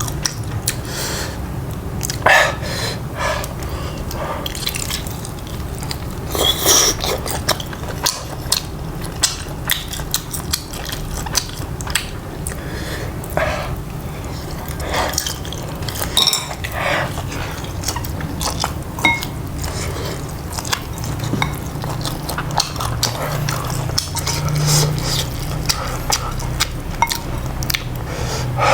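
Close-miked eating: biting and chewing, with scattered sharp clicks of dishes and cutlery, over a steady low hum.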